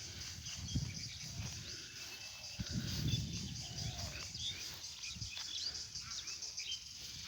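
Birds chirping in short calls over a steady, pulsing insect drone, with a few low thumps.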